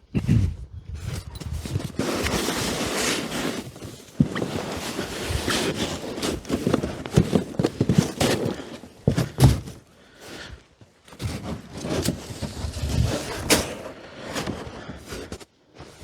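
Rabbit manure being shovelled and spread by hand: irregular scraping and crunching with scattered thuds, and a few short pauses.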